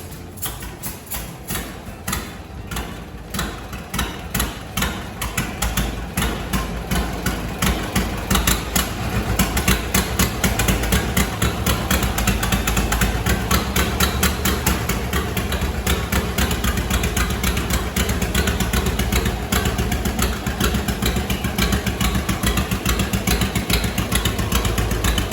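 John Deere BR tractor's two-cylinder engine running with its slow, evenly spaced popping exhaust beat. The beat quickens and gets louder over the first several seconds, then holds steady. The engine is running again after its restoration.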